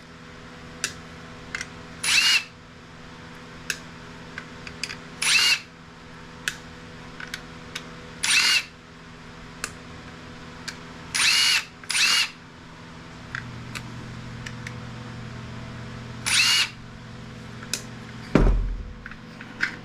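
Power drill spinning in six short bursts of about half a second each, each with a rising whine, backing screws out of a Polycom conference-phone microphone's housing. Light clicks fall between the bursts, and a heavy knock comes near the end.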